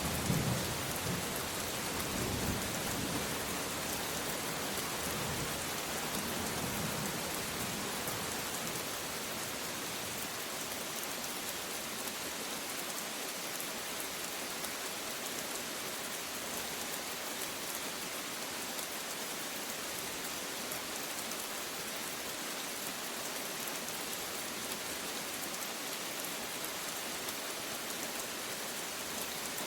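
Steady rain falling, an even hiss. Over the first several seconds the low rumble of a passing thunderclap dies away.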